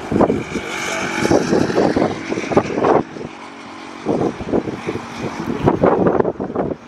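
Boeing 787-9 jet airliner on final approach in strong gusty wind: engine noise mixed with uneven wind buffeting, with a steady hum for a couple of seconds about a second in.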